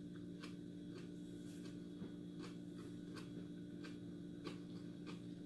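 Person chewing a mouthful of tuna macaroni with the mouth closed: soft wet mouth clicks about twice a second, over a steady low hum.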